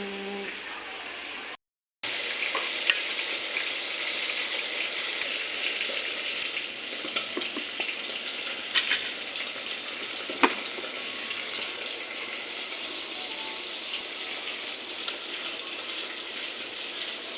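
Food frying in hot oil in a pan: a steady sizzle, with a few sharp clicks of a utensil against the pan. The sound cuts out completely for a moment near the start.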